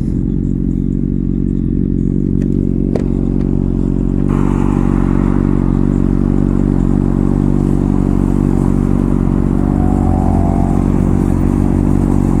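Honda CBR600RR inline-four with an MGP aftermarket exhaust running at a steady low engine speed, just after slowing down. A broad rushing noise joins it about four seconds in.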